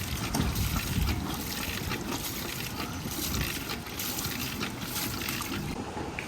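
Water running and splashing steadily, with a low rumble underneath.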